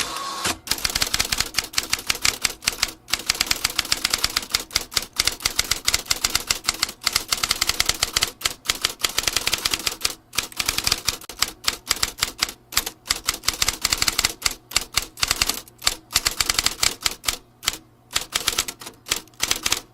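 Vintage typewriter being typed on: a fast run of key strikes clacking several times a second, broken by a few short pauses.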